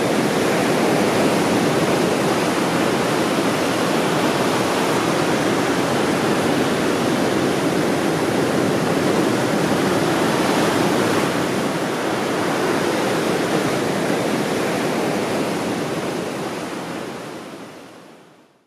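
Ocean surf: a steady rushing wash of breaking waves that fades out over the last few seconds.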